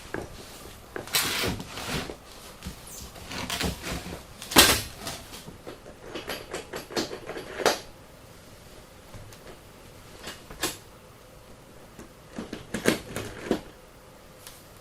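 Irregular knocks and clanks of metal go-kart parts being handled and fitted, with a few short scraping sounds; the sharpest knock comes about four and a half seconds in.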